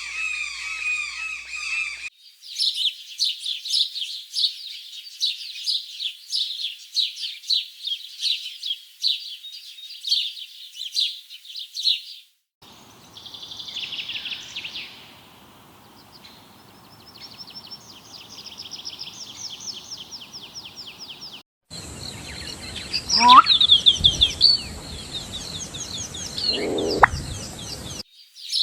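Birds chirping in a series of separate recordings cut together: first a fast, dense run of high chirps, then a softer stretch of thin, rapid chirping, then chirping with a loud, sharp call about two-thirds of the way through.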